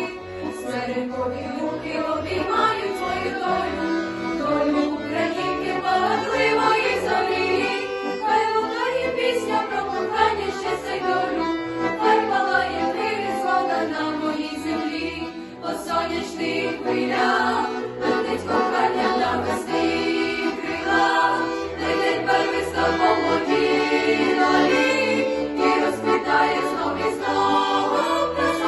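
Youth vocal group of school students singing a song together, with instrumental accompaniment keeping a steady beat.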